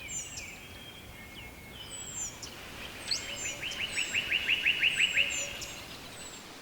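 Several songbirds chirping over a steady background hiss. About three seconds in, one bird sings a fast run of about ten repeated notes, roughly five a second, growing louder before stopping about two seconds later.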